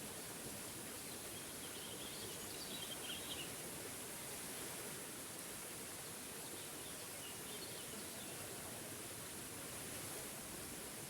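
Steady rush of a small forest waterfall, with a bird chirping briefly twice over it, once about two seconds in and again about seven seconds in.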